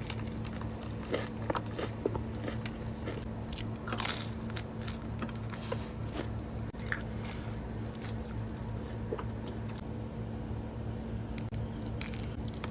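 Close-miked eating: crunchy bites and chewing with sharp, irregular crackles, the loudest crunch about four seconds in, over a steady low hum.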